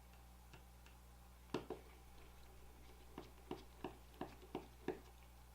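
Small sharp clicks of a Phillips 00 precision screwdriver working the tiny back-assembly screws of a smartphone. Two clicks come about a second and a half in, then a run of six evenly spaced clicks, about three a second.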